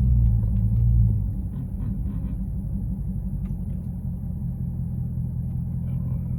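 Car engine and exhaust with the mid muffler deleted, a low steady drone heard from inside the cabin while driving. It is louder for about the first second, then settles a little lower.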